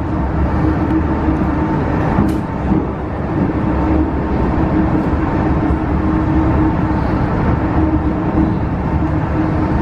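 MTR Tsuen Wan Line electric train running in restricted manual mode, heard from on board: steady rumble of wheels on rail with a steady hum from the drive equipment, and a brief click about two seconds in.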